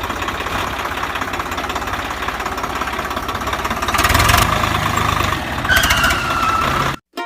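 A small motor runs with a fast, steady rattle. It gets louder about four seconds in, and a short whine shows near six seconds. It cuts off abruptly just before the end.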